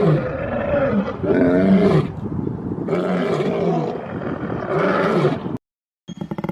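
Farm animals calling: four loud drawn-out calls that rise and fall in pitch, each under a second long. A short cut to silence follows, then a buzzier, pulsing animal sound near the end.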